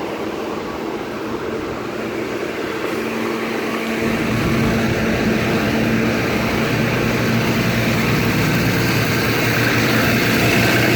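A vehicle engine running with a steady hum, getting louder about four seconds in as it comes closer, over a constant rushing of wind.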